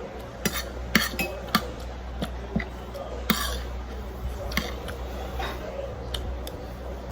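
Spoon and fork clinking against plates and bowls during a meal: irregular sharp taps, often about half a second apart, over a low steady hum.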